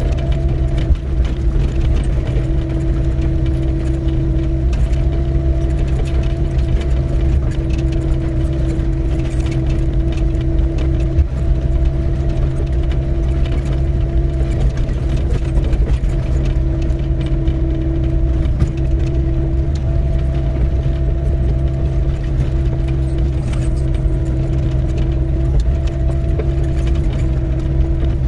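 Doosan 55W wheeled excavator's diesel engine running steadily under load with a steady hydraulic whine, and light clicks and rattles throughout.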